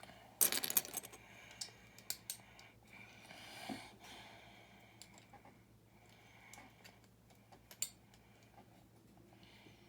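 Small plastic building-brick pieces clicking and rattling as they are handled and pressed together: a quick burst of rattling clicks about half a second in, then scattered single clicks.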